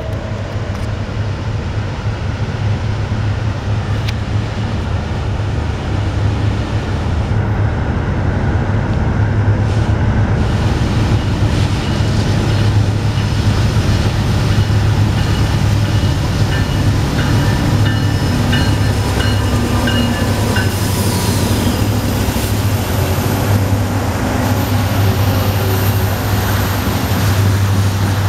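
Norfolk Southern mixed freight train passing: the diesel locomotives come up with a steady deep engine rumble that grows louder over the first several seconds, then tank cars roll by on the rails.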